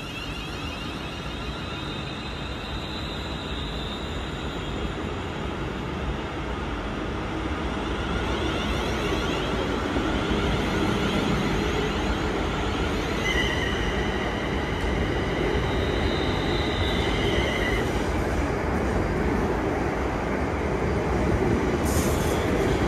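London Northwestern Railway electric multiple unit pulling out and gathering speed past the platform, its running noise growing louder over the first ten seconds and then holding steady. A high squealing tone from the wheels on the rails joins in for a few seconds about two thirds of the way through, and a short hiss comes near the end.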